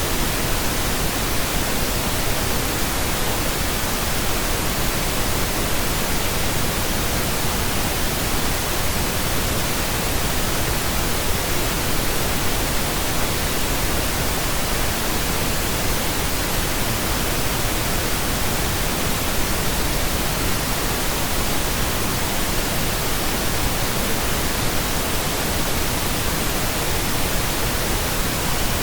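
Steady pink noise: an even, unchanging hiss across the whole range, with no tones, beat or events.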